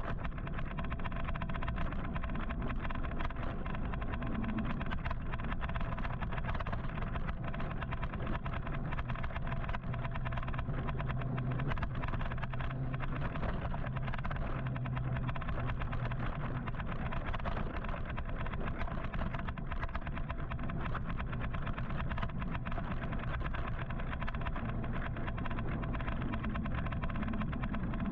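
Steady road traffic noise: car engines running and road rumble, unbroken and even in level.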